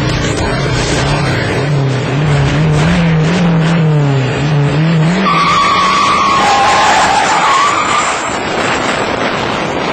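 Turbocharged Chevy Silverado V8 pickup revving, its pitch rising and falling over the first five seconds. This is followed by a high squeal lasting about three seconds.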